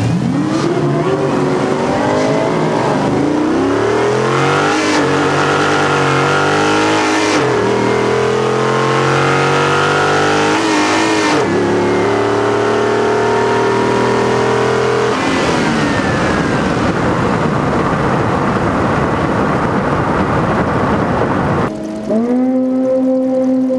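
A 2012 Dodge Challenger 392's 6.4-litre Hemi V8, with an aftermarket muffler, at full throttle on a quarter-mile drag pass. The engine note climbs through each gear, with three quick upshifts of the six-speed manual. At about fifteen seconds it lifts off and the revs fall away as the car coasts down, and near the end it drops to a slow low-speed engine note.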